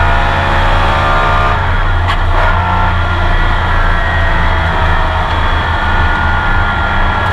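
Porsche 911 race car's flat-six engine heard from onboard, running at steady revs. About a second and a half in, the higher engine tones drop away as the throttle eases, and it carries on at a lower, rougher note.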